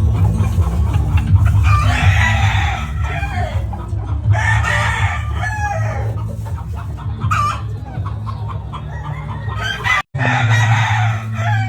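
Gamefowl roosters crowing three times, with chickens clucking between, over background music with a steady bass. The sound drops out briefly just before the third crow.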